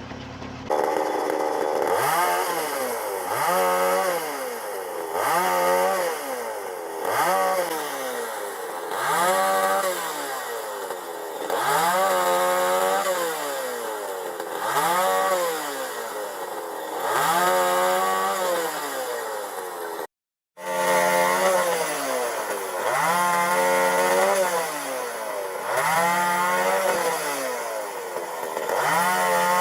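Chainsaw engine revving up and falling back over and over, about once every two seconds, with a brief cut-out about two-thirds of the way through.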